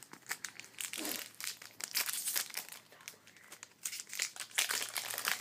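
Foil trading-card pack wrapper crinkling and tearing as it is opened by hand: irregular crackles, busiest about two seconds in and again near the end.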